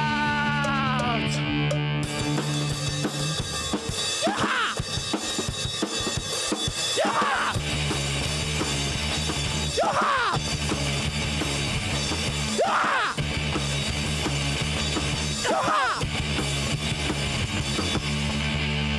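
Instrumental passage of a rock song with drum kit and bass. A sweeping sound recurs about every three seconds.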